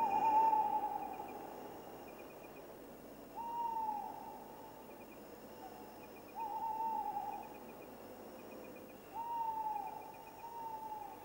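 A bird's hooting call repeated five times a few seconds apart, each note about a second long, holding its pitch and then dropping at the end; the first is the loudest. Behind it run a faint steady high tone and soft chirping trills.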